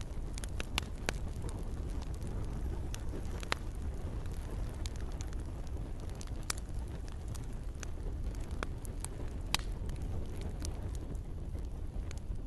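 Campfire crackling: irregular sharp pops and snaps, a few louder than the rest, over a steady low rumble of burning.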